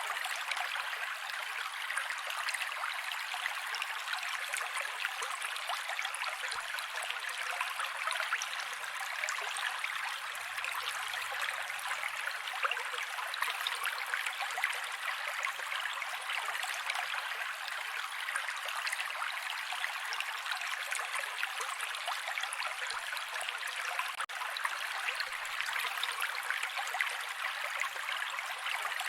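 Mountain creek water running over rocks, a steady even rush with no change in level.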